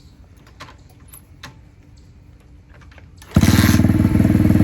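A few faint clicks and knocks, then a little over three seconds in the DB-X29 X-Pro dirt bike's engine starts suddenly and runs loud with a fast, even beat.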